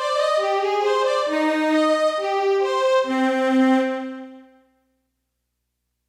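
Suiko VS-1 synthesizer playing a short melody of held notes that steps mostly downward, ending on a lower held note that fades out about four and a half seconds in; silence follows.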